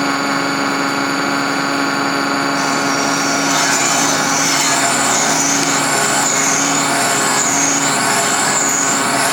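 Electric machine tool running steadily with a constant hum and a high, slightly wavering whine; it started up just before.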